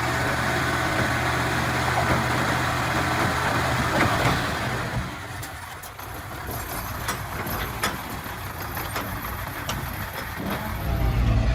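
Komatsu D31-P bulldozer's diesel engine running steadily, easing off about five seconds in. Scattered sharp metallic clicks follow, and the engine picks up again near the end.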